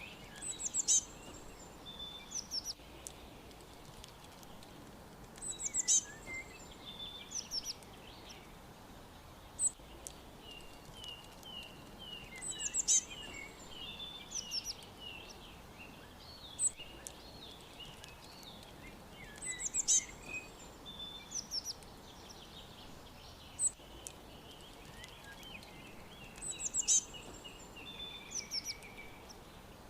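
Songbirds chirping over a steady background hiss. A phrase of high, sharp notes comes back about every seven seconds, and a run of quick, lower falling notes (about four a second) fills the middle.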